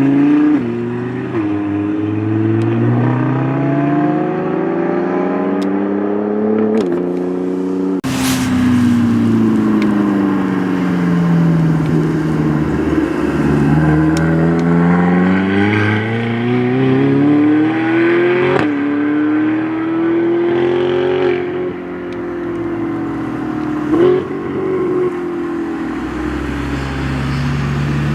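Supercar engines accelerating and braking around a sprint course, an Audi R8 among them: the engine pitch climbs through the gears and falls away again several times as cars pass.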